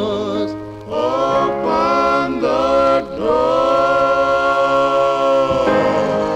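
A 45 rpm record of a vocal group singing closing harmonies: held chords with vibrato, briefly broken about a second and three seconds in, then one long sustained chord.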